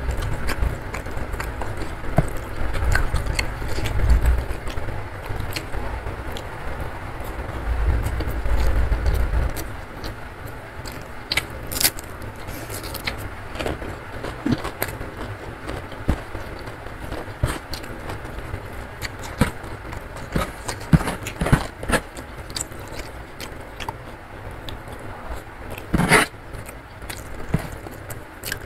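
Close-miked eating by hand: a mouthful of rice and sambal chewed with wet mouth clicks and smacks, and fingers scraping and squishing rice on a wooden board. The sound is deeper and heavier for the first ten seconds or so, then lighter, with scattered sharp clicks.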